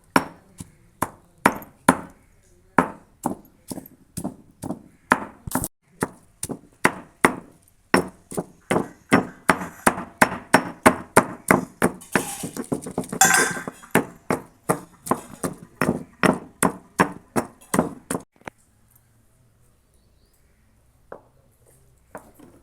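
Rapid repeated sharp strikes of food preparation by hand, such as chopping or pounding, about two to three a second and crowded together for a moment near the middle. They stop suddenly a few seconds before the end, leaving a few faint knocks.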